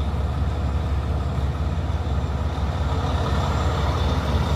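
Heavy truck's diesel engine running with a steady low rumble.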